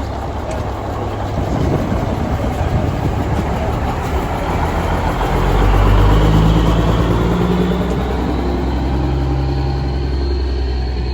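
Vintage truck engine running as the truck moves past, growing louder to a peak about six seconds in, then holding a steady low note.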